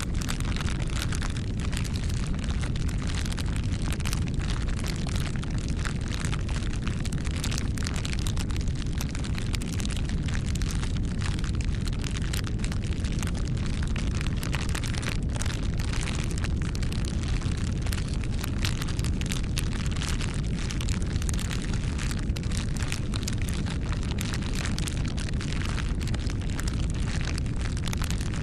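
Wood fire burning: a steady low rumble of flames with frequent irregular crackles and pops from the burning wood.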